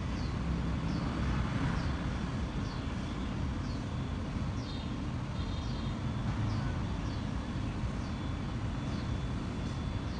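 Outdoor background: a bird repeating short, high, downward chirps about once a second over a steady low rumble like distant traffic.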